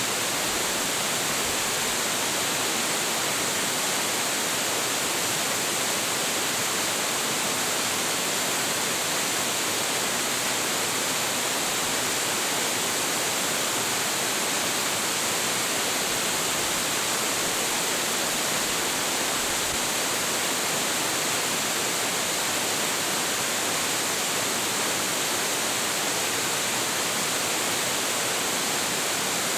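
Hiji Falls, a 25.7 m waterfall with heavy flow, crashing steadily into its pool: a continuous, even rush of falling water with a bright hiss.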